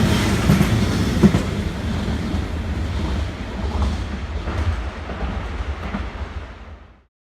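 Train passing through a station, a low rumble with occasional knocks that fades gradually and then cuts off abruptly about seven seconds in.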